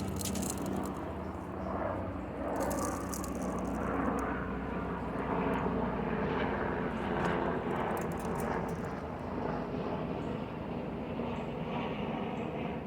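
Steady low engine drone, with a few brief high rattles about two to three seconds in.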